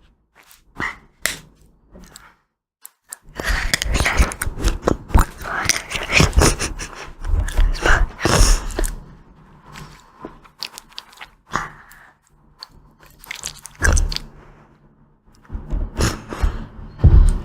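Close-miked eating of ice cream: crunchy bites and chewing, dense for several seconds, then sparser, with another burst of crunching near the end.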